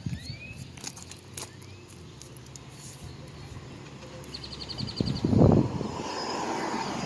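Birds chirping in short rising calls, with a quick even trill about four seconds in, and a low rumble about five seconds in that is the loudest sound.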